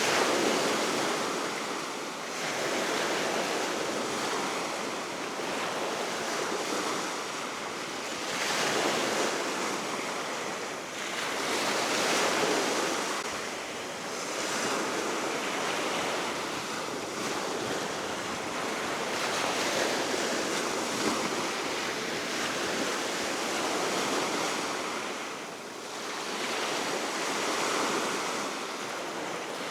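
Baltic Sea surf washing onto the shore in a steady roar that swells and falls back every few seconds as waves break, with wind blowing across the microphone.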